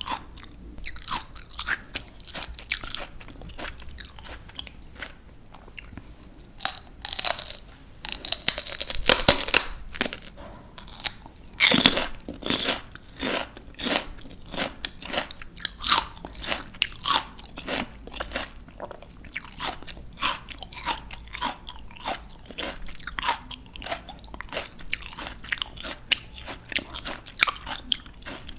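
Close-miked crunching of raw, crisp vegetables being bitten and chewed. Loud crisp bites come about 7 to 10 seconds in and again about 12 seconds in, between rapid crunchy chewing.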